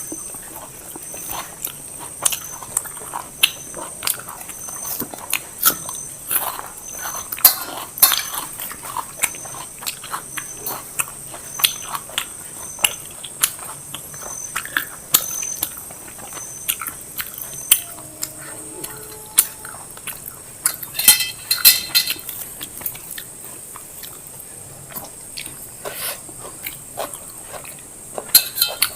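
Close-up eating sounds: biryani and salad being chewed, with frequent wet lip smacks and mouth clicks and occasional clinks of plates.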